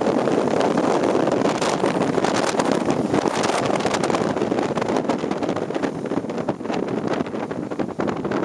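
Wind buffeting the microphone of a camera on a moving motorcycle, over a steady rush of engine and road noise.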